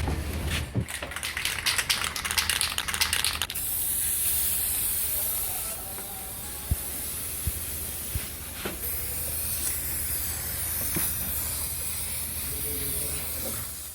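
Paint being sprayed: a steady hiss that starts about three and a half seconds in, after a stretch of rapid scratchy strokes, with a few faint clicks along the way.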